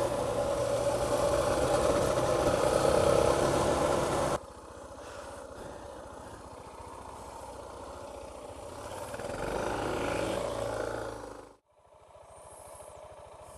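Suzuki DR650 single-cylinder motorcycle engine running on the move, with wind noise. The sound drops suddenly about four seconds in, rises as the engine speeds up around ten seconds in, then cuts near the end to a quieter, steady engine sound.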